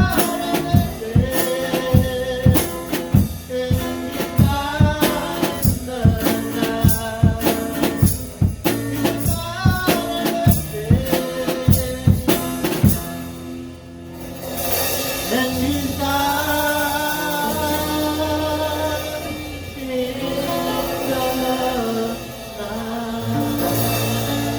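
Live church worship music: a drum kit keeps a steady beat under singing. About halfway through the drums stop, and a softer passage of held notes and voice follows.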